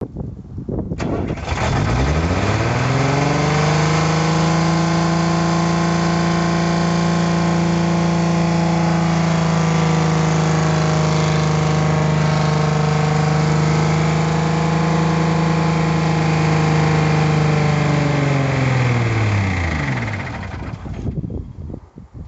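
Mercedes-Benz 814 truck diesel engine, started after three years standing, catches about a second in and at once races up to a high, steady speed. It holds there for some fifteen seconds, then winds down and stops near the end: the engine close to running away on its own.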